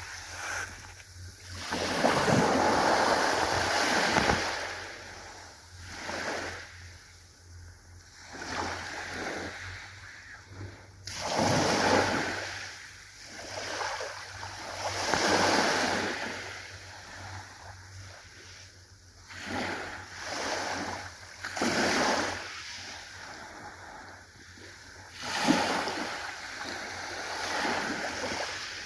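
Ocean waves breaking and washing in, swelling and fading in surges every two to four seconds.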